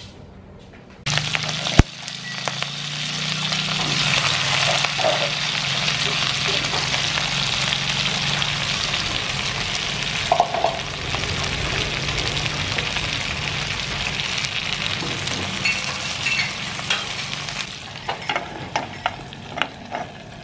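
Cabe rawit and red chillies dropped into hot oil in a frying pan about a second in, then frying with a steady loud sizzle. Near the end the sizzle drops as a metal lid goes over the pan, with a few sharp pops and clicks.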